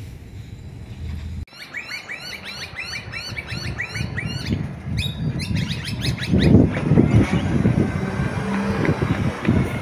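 A bird calls in a fast run of repeated chirps, about four or five a second, for a few seconds. Then a low rumble builds and becomes the loudest sound as a garbage truck approaches.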